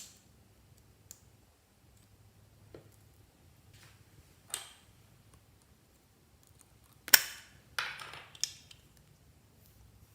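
Scattered sticky clicks and crackles of slime being mixed, with a louder cluster of three a little past the middle.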